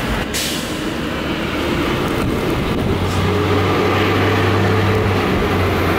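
A vehicle running with a steady low hum, which gets stronger about three seconds in.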